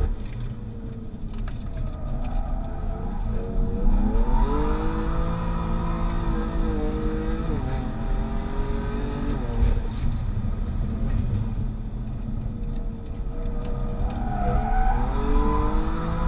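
BMW M3 F80's twin-turbo inline-six, with catless downpipes and an M Performance exhaust, heard from inside the cabin as it pulls and lifts around the track. The engine note climbs about three seconds in, holds, drops just past the middle, and climbs again near the end.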